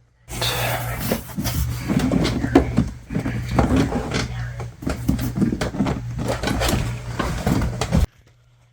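Rubbing and scraping with scattered knocks, irregular and loud, over a steady low hum: hands working over a car door's trim panel. It cuts off suddenly near the end.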